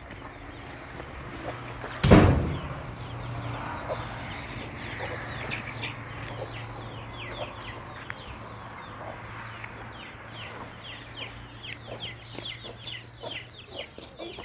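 Chickens clucking and cheeping, with quick high cheeps falling in pitch that grow busier in the second half. A single sudden loud thump about two seconds in.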